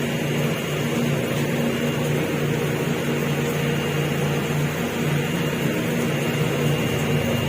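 Steady drone of a ferry's engines and machinery, a constant low hum with a few steady tones.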